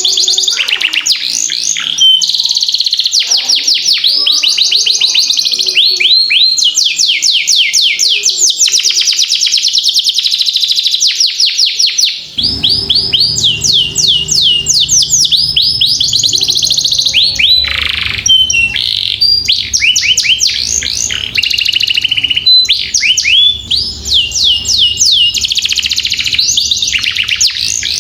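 Domestic canary singing nonstop in long rolling trills: fast runs of repeated sweeping notes, each run changing to a new note type. A low background hum starts about halfway through.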